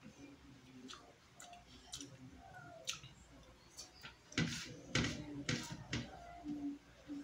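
Mouth sounds of eating: short wet smacks and clicks while chewing a mouthful of rice and fried fish, a few scattered at first, then a run of louder smacks about four to six seconds in.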